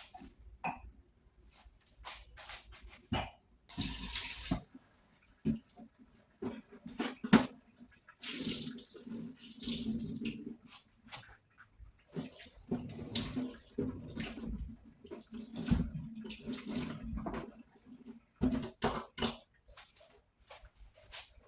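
Dishes being washed by hand at a sink: the tap runs in short spells, mixed with frequent small clicks and knocks of dishes being handled.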